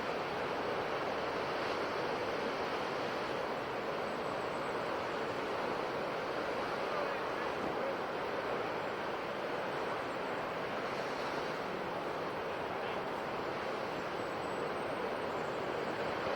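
Ocean surf washing on a shore, an even, steady rush of breaking water with little rise and fall.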